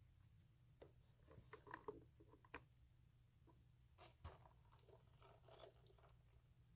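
Faint close-miked ASMR handling sounds: irregular soft, sticky crackles and a few sharp taps in scattered clusters, without a steady typing rhythm.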